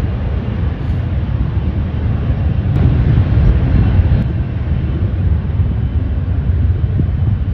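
Jet airliner's engines heard loudly as a steady, deep rumble, swelling slightly midway.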